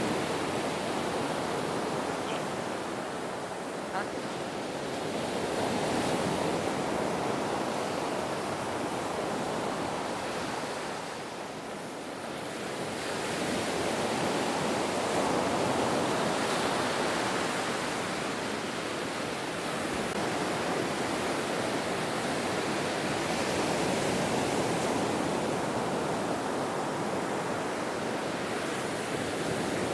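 Ocean surf: a continuous rush of breaking waves that slowly swells and ebbs, easing off briefly about twelve seconds in.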